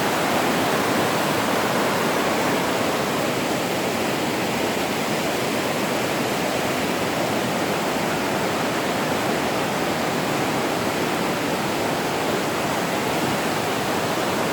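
Kokanee Creek's waterfall and rushing creek water, a steady, even rush with no breaks.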